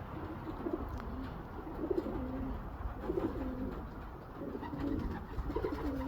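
Racing homer pigeons cooing: a run of low coo phrases, about one a second, each rising briefly and then stepping down to a lower held note, over a low background rumble.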